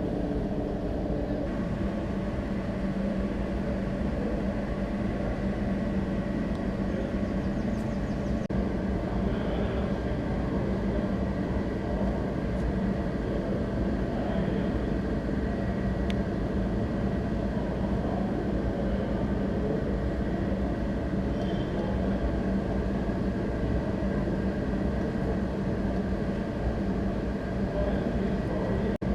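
Steady machinery noise: an even low rumble with a constant hum, running without a break.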